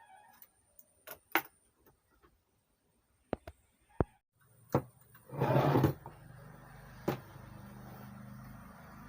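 Clicks and knocks of a mixer's channel circuit board being handled and seated in its metal chassis, with a louder scrape a little over five seconds in. A low steady hum sets in shortly before the scrape and continues.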